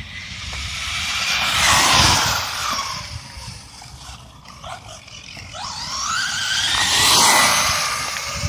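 Electric RC stadium truck running on a 3S LiPo, making two fast passes on pavement: the motor and gear whine rises and falls in pitch with tyre noise, loudest about two seconds in and again about seven seconds in.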